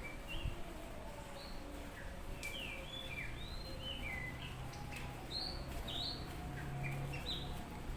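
Oriental magpie-robin singing a quick, varied string of short whistled notes that slide up and down, its song full of phrases imitated from other birds. A steady low hum runs underneath, with a couple of faint clicks.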